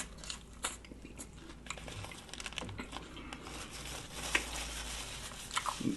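Close-miked eating sounds: scattered crisp crunches and crinkles, as of chewing a lettuce-wrapped sub sandwich, with a sharp click at the start.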